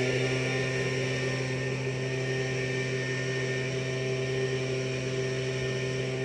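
Tractor engine running steadily at a constant speed, a low, even drone with no change in pitch.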